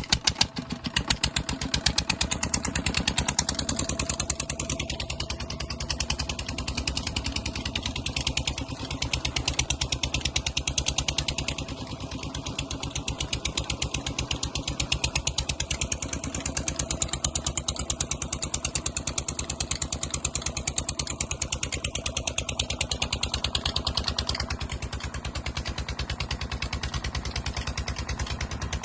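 Petter stationary diesel engine running steadily just after starting, with a rapid, even firing beat.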